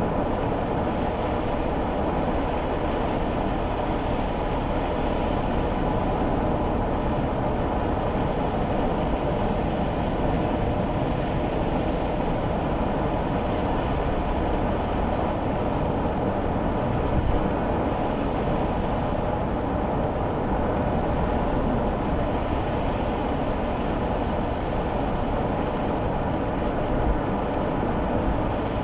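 Steady cabin noise of a kei car on the move on a wet road: low engine and road rumble with tyre noise. There is a small bump twice, about two-thirds of the way in and near the end.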